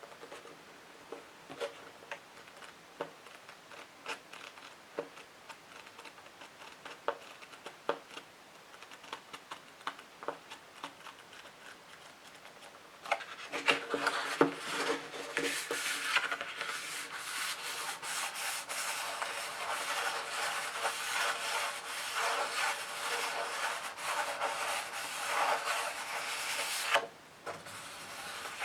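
Scratching on a book: scattered light taps and small scratches for about the first half, then continuous fast scratching that stops abruptly shortly before the end.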